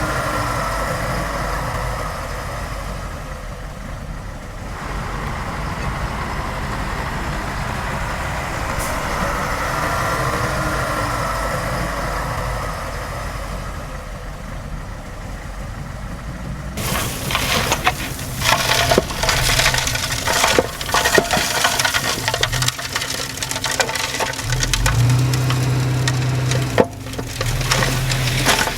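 Heavy earthmoving machinery: a diesel engine runs with a wavering whine for the first half. After an abrupt change about two-thirds of the way in, dense crackling and snapping take over, with a low engine drone underneath near the end.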